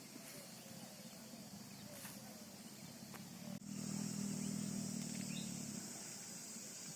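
A low, steady motor hum that grows louder about halfway in and eases off near the end, with faint bird chirps. From about halfway a steady high buzz joins.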